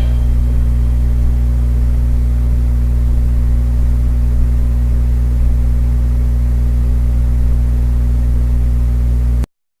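A loud, steady low drone of several fixed tones with no melody, left over from the background music track. It cuts off suddenly near the end.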